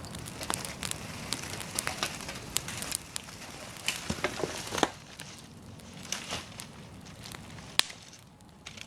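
Fire of dry fallen leaves crackling: many sharp pops over a steady hiss, dense for the first half and sparser after, with one loud snap near the end.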